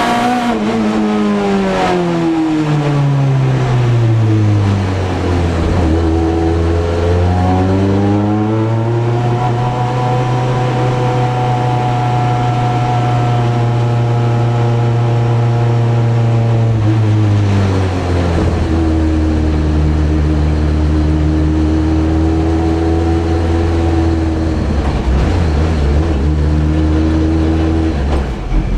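Ford Focus race car's engine heard from inside the cockpit, pitch falling away over the first few seconds, climbing again and holding steady, then dropping to a lower steady drone a little past the halfway point.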